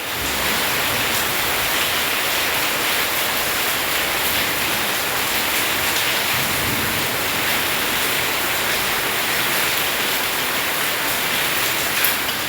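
Heavy rain pouring down steadily, a dense even rush of water with no let-up.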